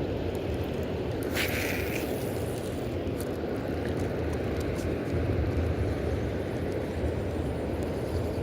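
Steady low outdoor rumble, with a brief hiss about a second and a half in and a few faint clicks.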